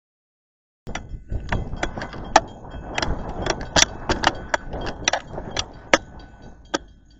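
A passing train: a low rumble with many sharp, irregular clacks, fading near the end.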